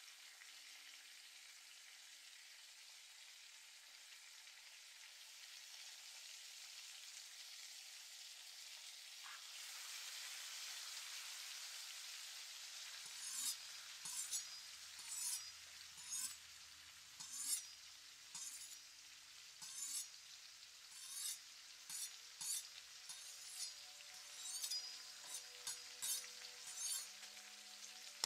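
Food frying in a pan: a steady sizzling hiss that swells near the middle. From about halfway on, a utensil stirs the food, each stroke a short sharp crackle, about one and a half a second.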